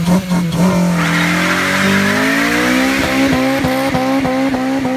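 A car's engine held at high revs with its tyres spinning and squealing in a burnout. The engine pitch climbs, then holds high with a regular stutter, and a strong tyre hiss joins it about a second in.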